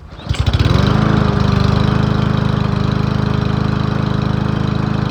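Troy-Bilt walk-behind lawn mower's small engine starting up: it fires within half a second and settles into a loud, steady run. It sounds great after its carburetor was cleaned, a fix for the mower's no-start.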